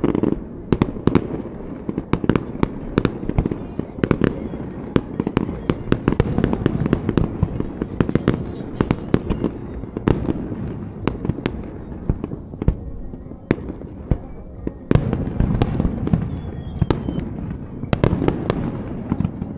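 Aerial fireworks going off in a rapid barrage: many sharp bangs in quick succession over a continuous rumble, with heavier booming swells about a second in, around fifteen seconds in and near the end.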